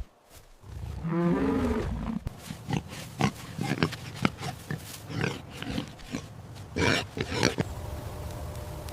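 An animal call with a falling pitch, followed by a run of short, sharp grunts over several seconds.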